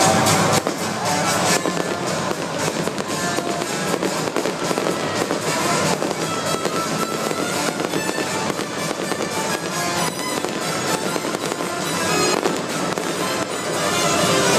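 Fireworks crackling with many rapid pops, over the show's loud music.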